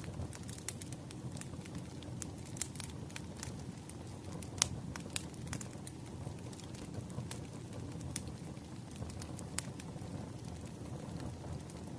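Firewood burning in a crackling fire: a steady low rumble with irregular sharp pops and snaps, a few of them louder than the rest.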